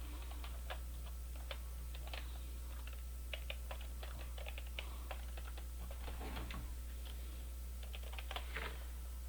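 Typing on a computer keyboard: a run of irregular, light key clicks, over a steady low electrical hum.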